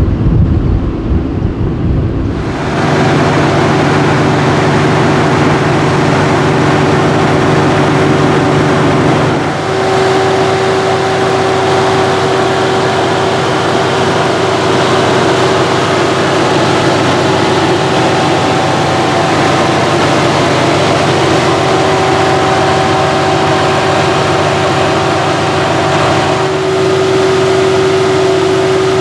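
Tuned Mercedes-AMG GT S twin-turbo V8 running at a steady, unchanging pitch, with a rushing haze over the engine hum. In the first couple of seconds there is a deeper rumble that cuts off abruptly.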